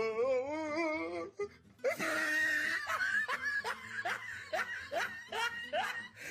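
A person laughing hard: a wavering laugh at first, then a run of short rising squeals of laughter, about two a second.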